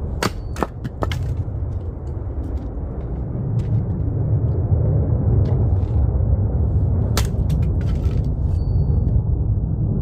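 Oak firewood cracking and splintering apart: a quick run of sharp cracks in the first second, a few more about seven seconds in, over a steady low rumble.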